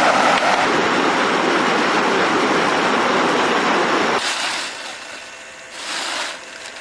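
A loud, steady rushing noise that cuts off abruptly about four seconds in, followed by two brief, softer swells of the same noise.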